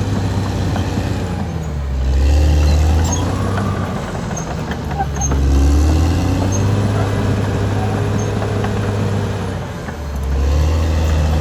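Caterpillar D6R XL bulldozer's diesel engine running steadily, its note dropping and getting louder three times, a few seconds apart, as it comes under load, with faint clicks and clanks over it.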